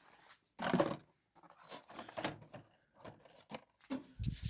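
Irregular rustling, scuffing and light knocks of product packages and containers being handled and moved around.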